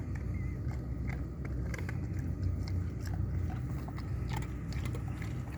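A Great Dane biting and crunching ice, a run of sharp, irregular cracks and crunches over a steady low rumble.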